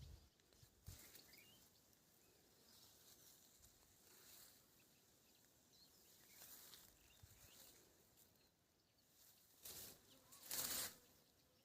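Faint outdoor ambience with a few faint, scattered bird chirps, and two brief rustles about ten seconds in, the second the louder.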